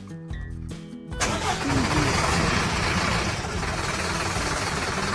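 Light music, cut about a second in by a heavy machine engine starting up and then running loudly and steadily.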